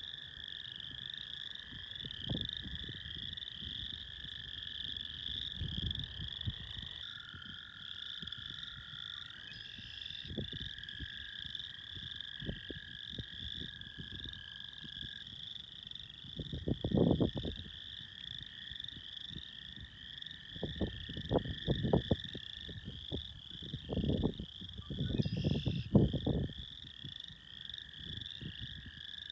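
Chorus of frogs calling: a dense, pulsing high trill, with a steadier, lower trill beneath it. Bursts of low rumble come and go in the second half and are the loudest sounds.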